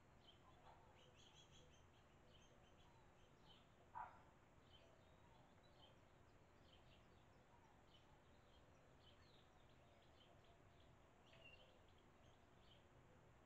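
Faint bird chirps and twittering, many short high notes scattered throughout, from barn swallows at the nest. One brief louder sharp sound about four seconds in.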